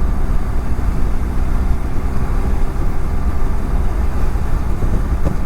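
Steady wind rush on a helmet-mounted camera at riding speed, with the even drone of a BMW F700GS parallel-twin engine cruising underneath.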